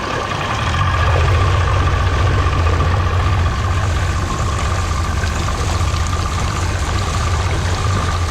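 A boat's outboard motor running steadily, with a constant low hum and a steady higher whine.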